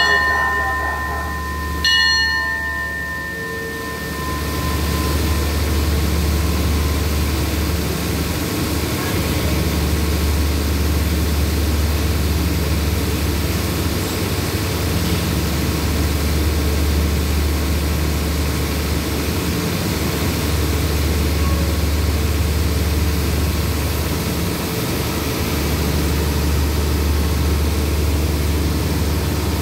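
A station bell struck twice, about two seconds apart, at the start. Then the steady low rumble of a diesel passenger train idling at the platform, swelling and easing every few seconds.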